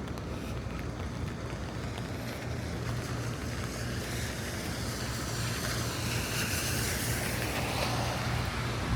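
A vehicle passing on a rain-wet street, its tyre hiss swelling from about four seconds in and easing off near the end, over steady rain and a low steady hum.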